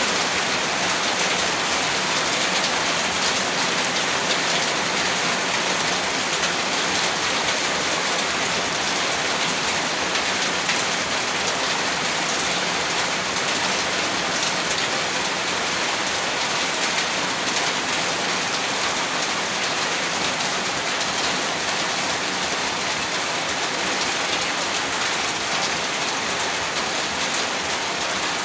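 Heavy rain falling steadily, a dense, even downpour of drops pattering on a surface.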